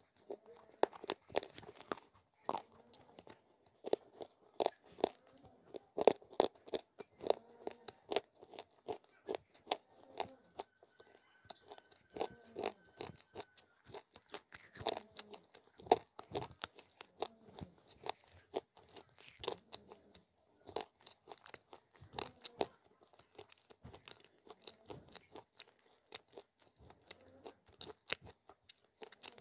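Crunching and chewing of baked clay lumps (Punjabi mitti) close to a clip-on microphone: a dense run of sharp crunches that grows sparser near the end.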